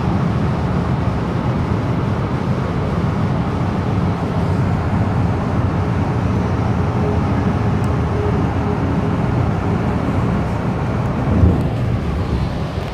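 Steady low rumble of a Tangara electric suburban train running along the track, heard inside the carriage, with a brief thump near the end.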